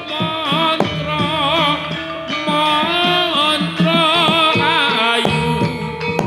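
Javanese gamelan music playing a gending, with a wavering, ornamented vocal line over steady drum strokes.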